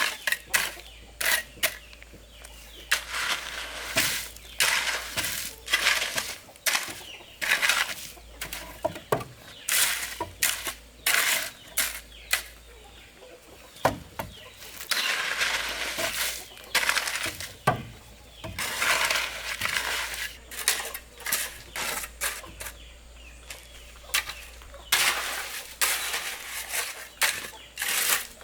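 Poultry clucking, among many short, irregular scratchy sounds that come and go.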